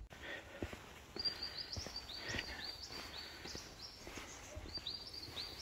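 A small bird calling a rapid run of high chirps and trills, starting about a second in and coming again near the end, over soft footsteps.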